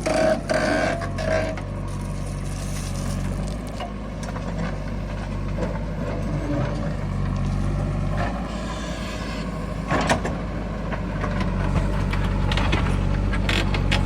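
Heavy diesel engine of a tractor or backhoe loader running steadily, with a few knocks near the start and a sharper clank about ten seconds in.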